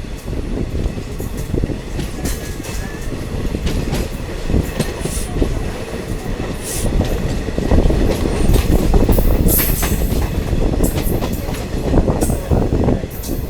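Diesel multiple unit train running along the track, a steady rumble with rapid wheel clatter and knocks, heard on board. It grows louder about eight seconds in.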